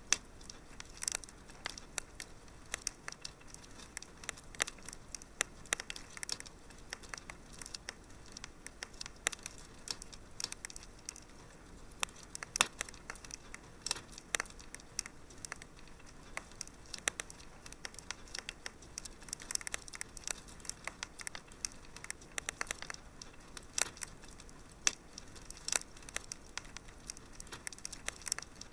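Wood fire crackling in a fireplace: a steady low hiss broken by frequent, irregular sharp pops and snaps.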